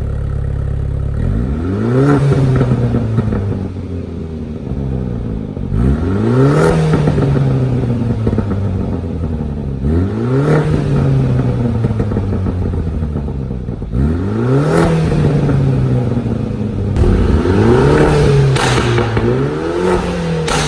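BMW 430i's turbocharged four-cylinder engine blipped to high revs about six times, the last two in quick succession, with the revs dropping back to idle after each. As the revs fall, the exhaust gives off popping and crackling from the pop-and-crackle tune.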